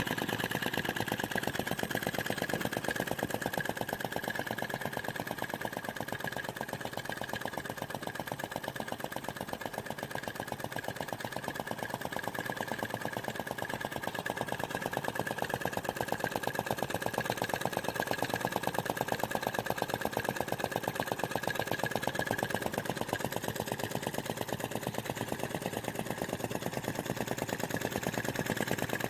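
Model flame gulper vacuum engine running steadily, its piston and flame valve making a rapid, even beat, with a steady high-pitched tone alongside.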